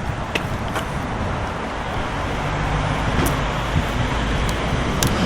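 Road traffic noise: cars running along the street with a steady low rumble, and a few faint clicks over it.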